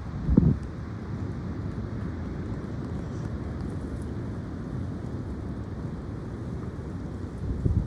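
High wind blowing in a steady low rumble, with gusts buffeting the microphone about half a second in and again near the end.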